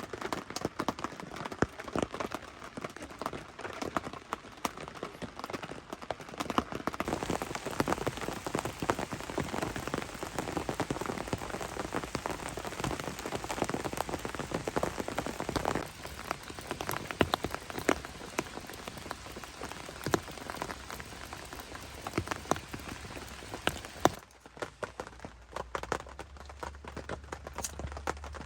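Steady rain with many small drops pattering. It gets fuller about 7 seconds in and eases off about 24 seconds in.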